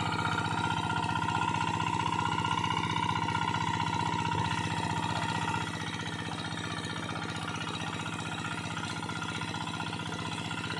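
Engine of a water-suction pump running steadily at constant speed, drawing water off a field. A higher whine in the sound stops about halfway through, and the overall level drops a little then.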